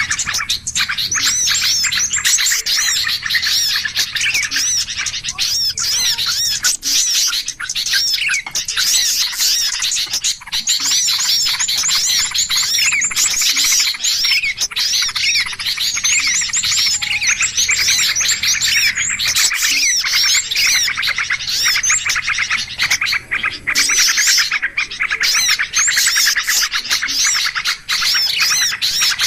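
Bird-lure recording of many small birds chirping and calling noisily at once: dense, overlapping rapid high chirps that never let up, the agitated 'ribut' chorus played to draw small birds in.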